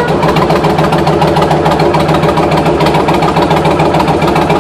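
2007 Kawasaki Vulcan 1600's V-twin engine idling steadily through its exhaust pipes, a loud, even beat.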